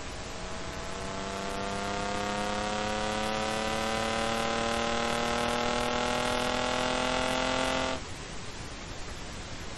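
Engine of an engine-swapped BMW E28 accelerating, its pitch rising steadily for about seven seconds over a steady rush of wind and road noise. The engine sound cuts off suddenly near the end.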